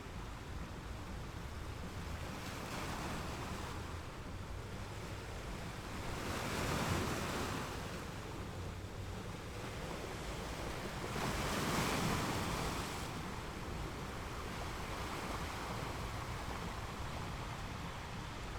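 Ocean surf washing onto a beach, a steady rush of water with two waves breaking louder, about six and eleven seconds in.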